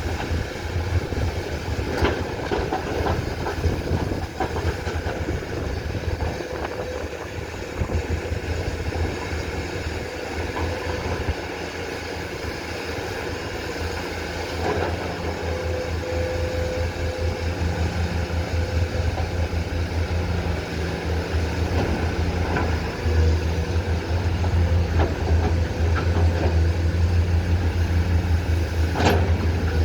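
Komatsu PC210 excavator's diesel engine running under working load with a low throb that gets louder in the second half, with a few sharp knocks of the machine working, the sharpest near the end.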